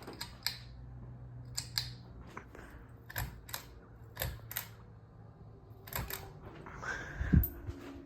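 Hunter Augusta ceiling fan running with a low, steady hum, under a series of irregular sharp clicks and a single louder thump about seven seconds in.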